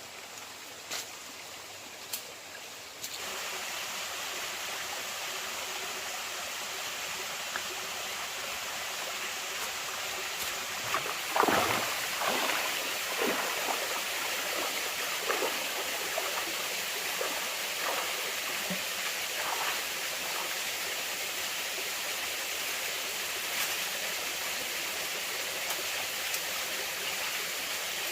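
Stream water running steadily, with a burst of splashing and gurgling about eleven seconds in and scattered smaller splashes after it.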